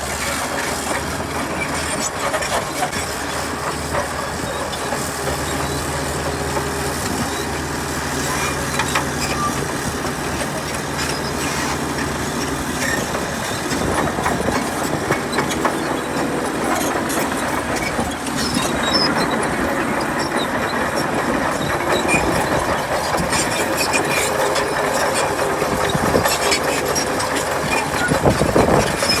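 Komatsu D61PX crawler bulldozer working: its diesel engine runs with a steady low drone, plainest in the first dozen seconds, under a continuous clanking rattle of the steel tracks.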